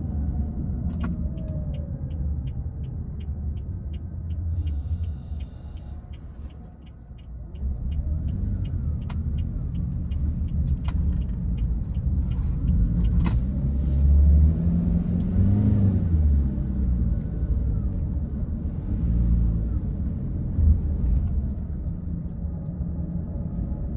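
Car running on the road, heard from inside: a steady low engine and tyre rumble. For about the first half it is joined by an indicator ticking at about three ticks a second.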